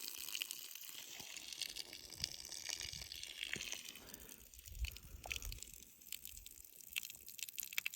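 Running water: a steady rushing hiss with scattered small clicks and a few soft low thumps.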